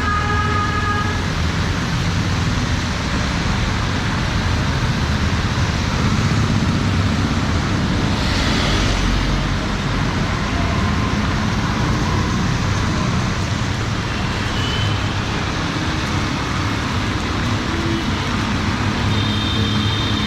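Busy city street traffic in the rain: vehicle engines running under a steady hiss of rain and wet road. There is a short horn blast about a second in, and a brief high tone near the end.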